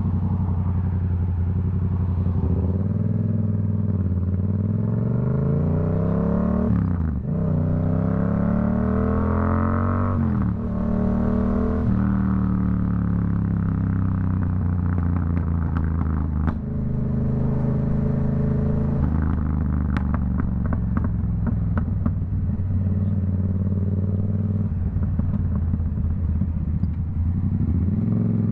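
Yamaha MT-07's CP2 parallel-twin engine through a Black Widow aftermarket exhaust, accelerating with two quick upshifts in the first ten seconds, then easing off. Rapid crackles and pops on the overrun about twenty seconds in, before it pulls again near the end.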